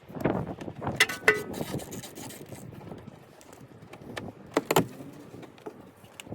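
Metal clinks and knocks from hand tools and brake parts being handled, with two sharp ringing strikes about a second in and another pair of knocks near the end.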